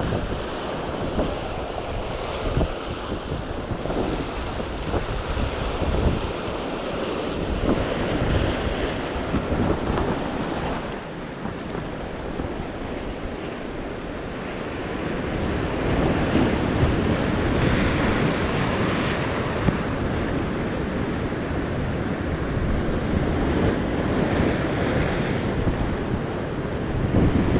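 Sea surf washing in steadily, with wind buffeting the microphone; the wash swells louder about halfway through.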